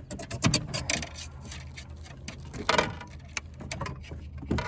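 Irregular clicks, knocks and rattles from handling in a fishing boat just after a bass is netted, over a steady low hum.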